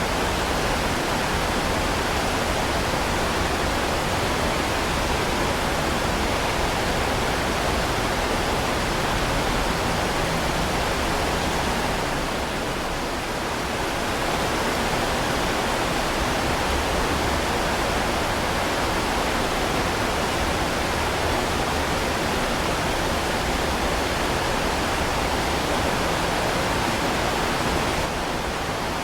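Heavy rain falling in a dense, even hiss, easing slightly for a moment about halfway through.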